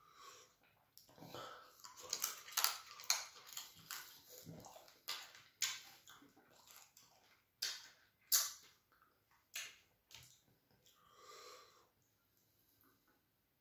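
Close-miked wet chewing, lip smacks and mouth clicks of a person eating fufu and chicken in light soup by hand, in irregular sharp smacks that thin out after about ten seconds.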